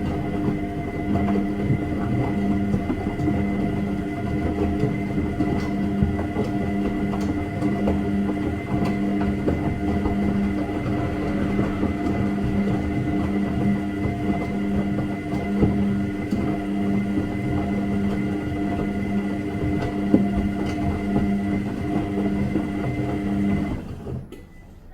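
Washing machine running: a steady motor hum with a regularly pulsing low drone and a busy rattle from the drum. It cuts off abruptly near the end, leaving a much fainter background.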